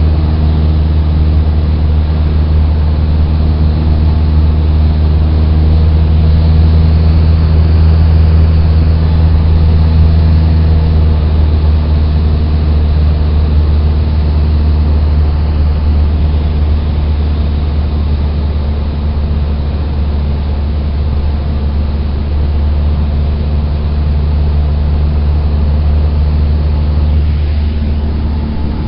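Cessna 172's four-cylinder Lycoming piston engine and propeller droning steadily, heard inside the cockpit as a loud, low hum that eases slightly in level about halfway through.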